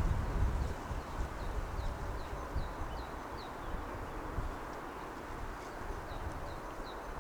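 A small bird repeating short, high, falling chirps in two runs, over a steady background hum of city and wind. Gusts of wind rumble on the microphone at the very start.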